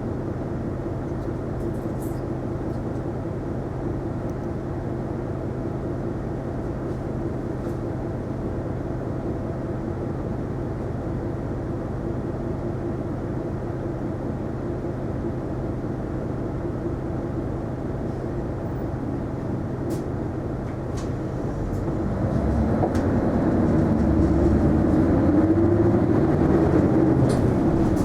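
Interior running sound of an Isuzu Erga non-step city bus: the engine hums steadily, then about 22 s in it grows louder and its pitch rises and falls as the engine is worked harder, as when the bus pulls away or accelerates.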